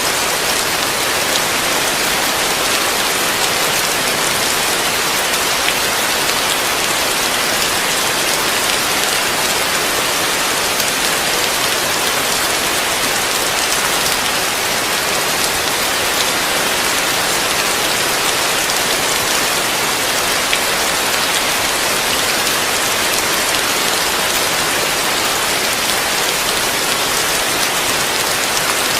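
Heavy rain falling steadily on a roof, a dense, even hiss with no let-up.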